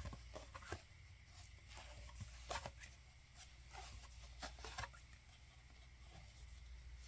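Pages of a book being turned quickly: faint, scattered soft taps and paper rustles.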